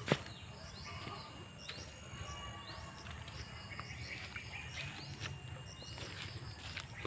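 Small birds chirping: many short rising chirps, over a faint steady high whine and background noise, with a sharp click right at the start.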